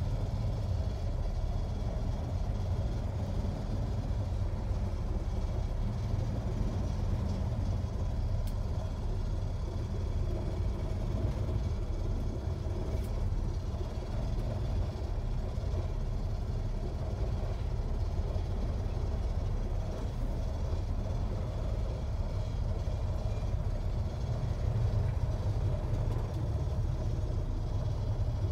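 1962 Chevrolet Corvair's rear-mounted air-cooled flat-six engine running steadily with a low rumble.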